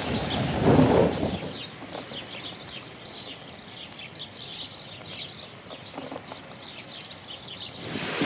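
Small birds chirping in quick, scattered calls, with a brief louder low rumble about a second in.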